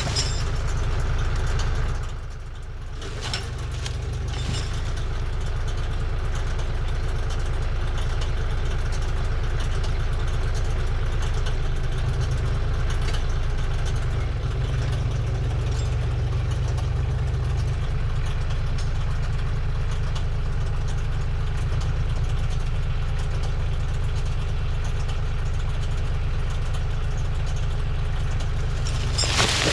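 Tractor engine running steadily with a low, even drone, dipping briefly about two seconds in.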